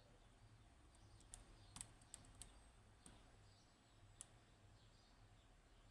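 Faint, sharp metallic clicks of a lock pick working the pins inside a Yanai high-security lock under tension: a quick run of four or five clicks over about a second, then one more click a couple of seconds later.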